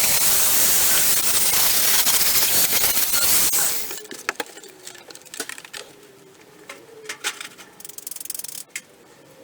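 MIG welder arc crackling and hissing in a steady run for nearly four seconds, then stopping abruptly as the trigger is released. Scattered light clicks and taps follow.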